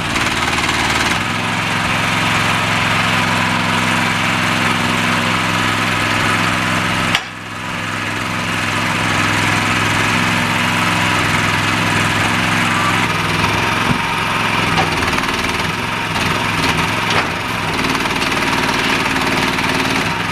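The small engine of a remote-controlled Shed Buggy shed mover runs steadily while it maneuvers a shed into place. There is a brief break about seven seconds in, after which it runs on.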